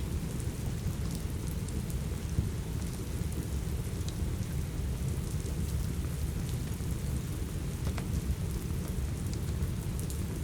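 Steady rain with a deep, even rumble underneath, and a few sharp pops from a crackling wood fire in a fireplace.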